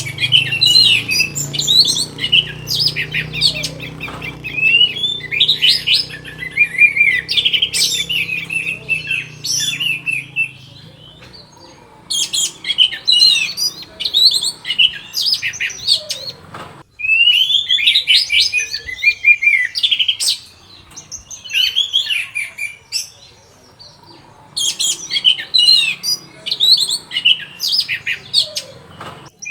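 Orange-headed thrush (anis merah) singing long bouts of rapid, varied high whistled phrases, pausing briefly twice.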